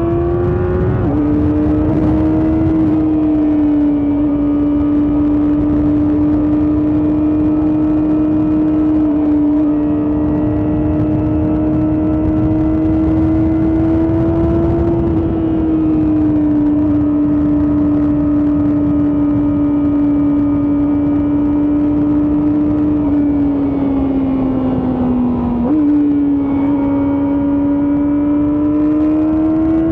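Kawasaki ZX-4RR's 399 cc inline-four running at high revs under way, a steady high-pitched howl with wind rush. The revs drop suddenly about a second in at an upshift, then hold a steady cruise. Near the end the revs sag, jump back up at a downshift and climb again as the bike accelerates.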